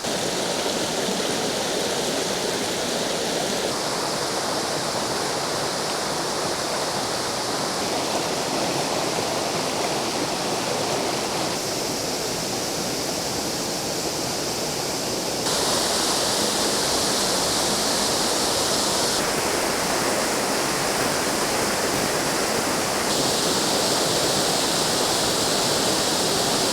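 Waterfall on the River Douglas in full flow, with plenty of water pouring over: a steady, heavy rush of falling water. The tone shifts abruptly every few seconds, and it gets louder about halfway through.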